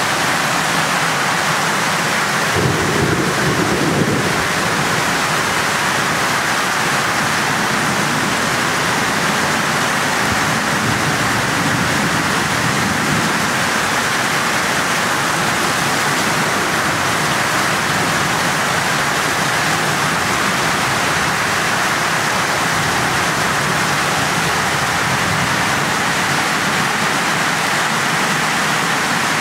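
Torrential rain pouring down in a steady hiss. A low rumble of thunder comes about three seconds in, and a fainter one around eleven seconds.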